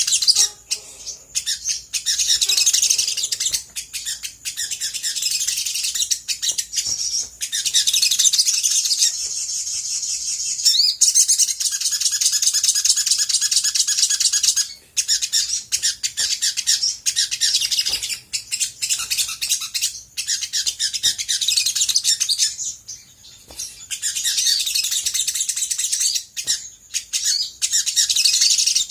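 Olive-backed sunbird singing a long, rapid, high-pitched chattering song, broken by a few short pauses.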